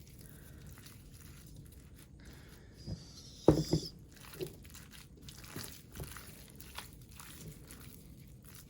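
Kitchen handling sounds: scattered soft clicks and rustling, with one loud knock about three and a half seconds in.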